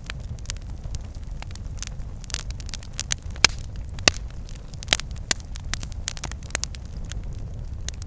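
Campfire crackling, with irregular sharp pops and snaps of burning wood, a few louder ones in the middle, over a low steady rumble.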